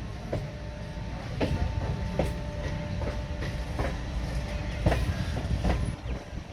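Indian Railways train running along the track: a steady low rumble with the wheels clacking over rail joints at irregular intervals.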